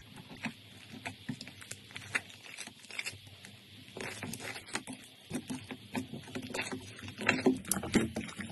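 Slime being squeezed and pressed by hand, giving irregular wet clicks and pops that come thicker and louder in the second half.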